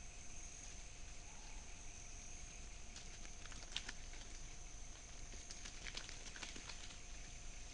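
Quick dry crackles and rustles, as of something stepping and scuffling through dry leaf litter, bunched in the middle few seconds. They sit over a steady high-pitched insect drone of the rainforest.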